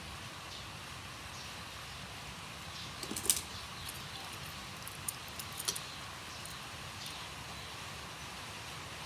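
A few sharp clicks and taps over a steady low hiss: a short cluster about three seconds in, the loudest, then a few more in the middle.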